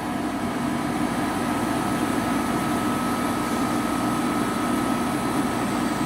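5000 BTU Haier window air conditioner running: a steady fan rush with a constant hum and a thin steady whine over it.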